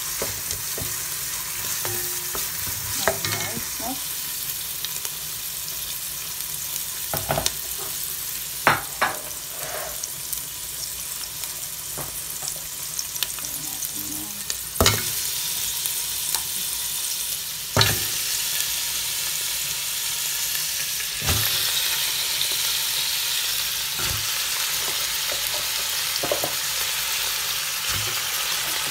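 Onion, garlic, ginger, chili and bay leaf sautéing in oil in a stainless steel pot, sizzling steadily as a wooden spoon stirs them, with occasional sharp knocks of the spoon against the pot. The sizzling grows louder in the second half.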